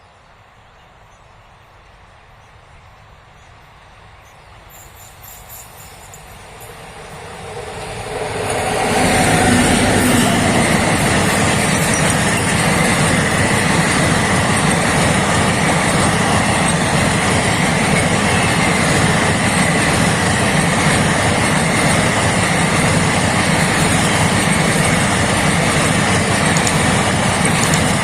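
Indian Railways express train approaching and growing steadily louder over about nine seconds, then rushing past close by with a loud, steady roar of wheels on rails.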